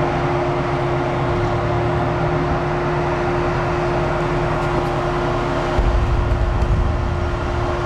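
Farm machinery running steadily at a grain bin site, a loud hum with one constant tone over a rumble that deepens about six seconds in.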